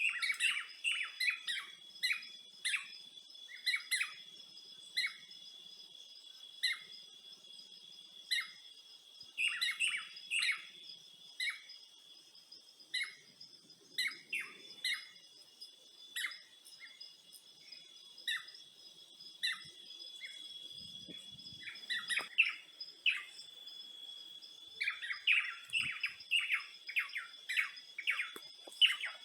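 Songbirds chirping in short, repeated calls that come in quick flurries, busier near the end, over a steady high-pitched insect drone.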